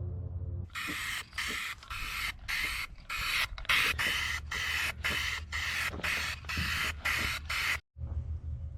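Aerosol spray paint can spraying in a quick series of short hissing bursts, about two a second, before a sudden cut near the end.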